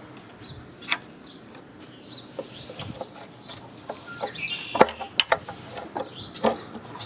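A big wrench used as a pry bar knocking and scraping against the engine while a cover is being pried loose. It gives a few scattered metal knocks, with a sharp clank a little under five seconds in and a quick run of knocks just after it.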